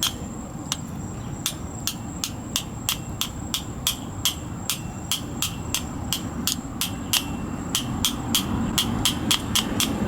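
Quick, light metal-on-metal taps, about three a second and a little faster near the end: a tool being tapped through an F-150's drum brake wheel cylinder to drive out a piston that is stuck in the old bore. A steady low rumble runs underneath.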